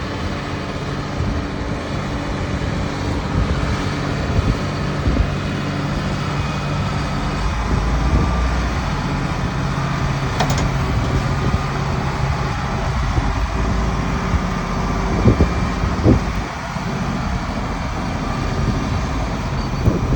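A vehicle driving along, its engine humming steadily under tyre and road noise, with a couple of sharp knocks about three-quarters of the way through.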